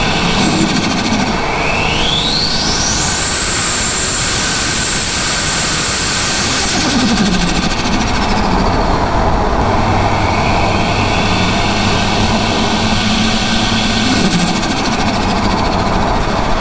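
Turbocharged Ford Barra inline-six being revved: a high turbo whine climbs steeply and holds for about three seconds, then cuts off about seven seconds in as the throttle closes, with a brief turbo flutter chatter and the engine note falling. The engine builds revs again later with a fainter rising whine.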